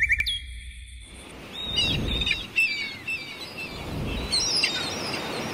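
Birds chirping in quick short calls over a rushing background noise, starting about a second and a half in, after a brief electronic tone at the very start.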